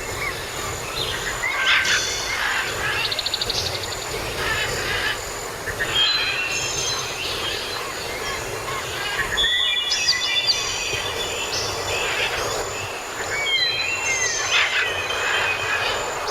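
Several birds chirping and whistling in short calls and glides, with a fast trill about three seconds in, over a steady hiss of rain.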